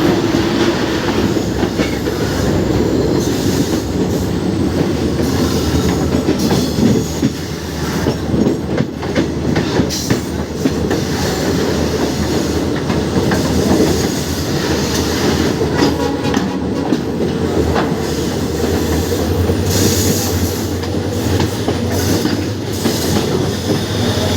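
Passenger train hauled by twin WDP4D diesel locomotives running on the track: a steady loud rumble of the moving train with wheels clattering over rail joints. A low drone strengthens in the last few seconds.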